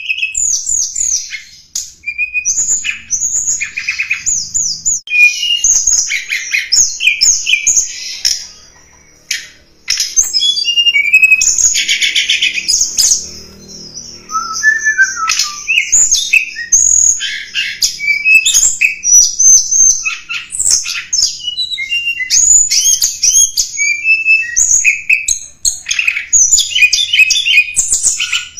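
Tledekan gunung song: a rapid run of high chirps, trills and short whistled slurs, broken by brief pauses about nine and fourteen seconds in.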